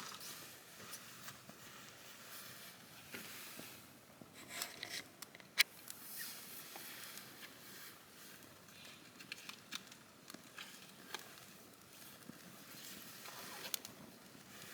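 Wood campfire burning: a soft steady hiss of flames with irregular crackles and small pops, one sharp pop a little over a third of the way in.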